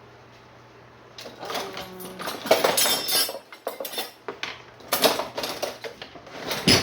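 A spoon scraping and clanking against a pan and dish as buttered chicken is scooped into a pan to warm up: a run of irregular clatters starting about a second in, with a sharp clank near the end.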